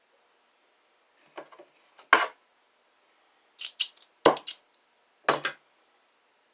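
Small hard objects clinking and knocking as they are handled and set down on a jewelry workbench: a handful of short, sharp knocks over a few seconds, the loudest two about two and four seconds in.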